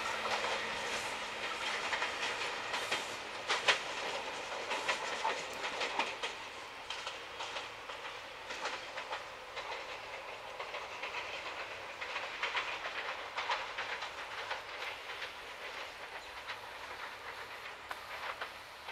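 SEPTA electric multiple-unit commuter train pulling away, its wheels clicking irregularly over rail joints and switches. The clicks are sharpest about three and a half seconds in, and the whole sound fades steadily as the train recedes.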